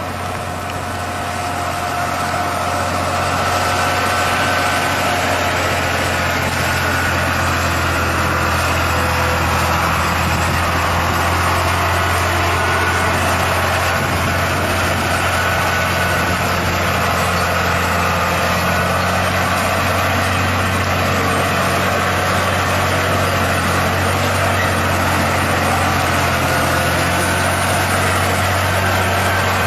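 Heavy truck engine running steadily with a deep, even hum, growing louder over the first few seconds and then holding level.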